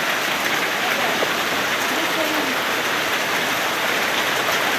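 Loud, steady rush of falling water, an even hiss with no let-up.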